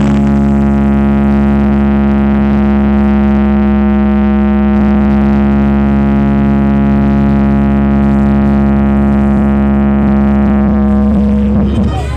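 A loud, steady drone with many overtones, held without change from a sound-horeg carnival sound system. It breaks off near the end as the beat-driven music returns.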